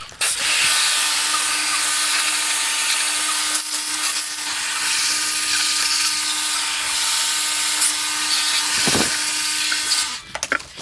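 A small motorised tool runs steadily for about ten seconds with a hiss and a constant low hum, then stops near the end.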